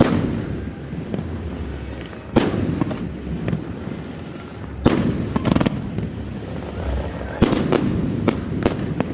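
Aerial fireworks bursting: a string of sharp bangs at uneven intervals, coming faster near the end, with a low rumbling echo between them.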